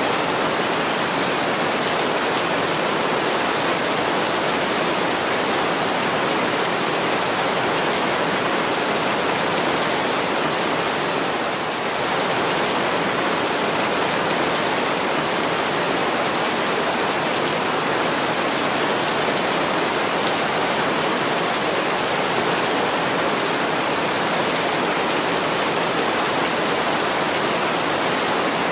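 Heavy rain pouring steadily on a window, a dense, even hiss that dips briefly about twelve seconds in.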